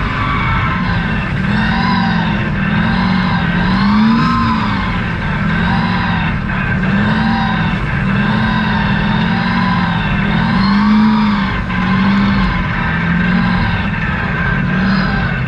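Truck engine revving up and falling back over and over as it is driven through mud, its pitch rising and dropping roughly every second or two.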